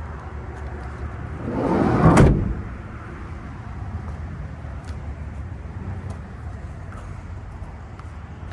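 Sliding side door of a Nissan NV cargo van rolling shut, ending in a sharp latching clunk about two seconds in, over a steady low outdoor rumble.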